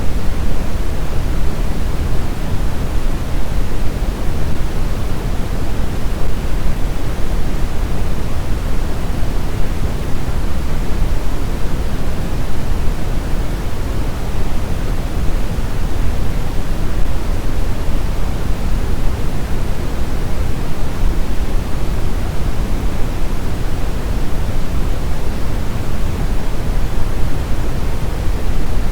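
Brown noise: a steady, even rushing hiss, strongest in the deep bass and thinning out toward the treble, with no changes or breaks.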